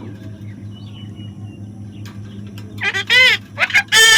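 Parrot giving loud calls that arch up and down in pitch, two of them starting about three seconds in, after a few faint chirps over a steady low hum.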